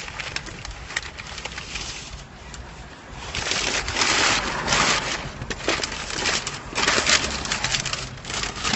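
Rustling and crinkling of takeout food packaging being handled, in loud bursts about halfway through and again near the end, with small clicks and taps between.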